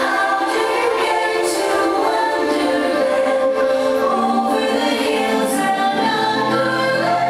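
Choral music: a choir singing long held notes that change pitch every second or so.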